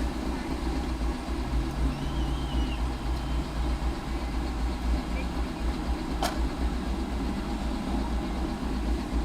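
Car engine idling with a steady low rumble, and a low hum rising above it from about one and a half to four seconds in. There is one sharp click a little past six seconds.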